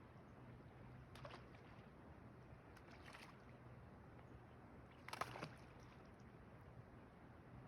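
Near silence on still water, broken by three brief faint splashy water sounds, the clearest about five seconds in.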